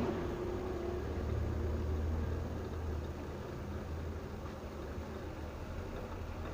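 A vehicle running: a steady low rumble under a constant hiss.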